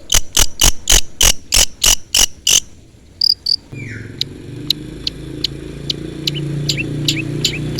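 Long-tailed shrike (cendet) calling: a fast run of harsh, evenly spaced notes, about four a second, then after a short pause a series of sharp, high, downward-slurred chirps that come quicker toward the end. A steady low rumble comes in under the chirps about halfway through.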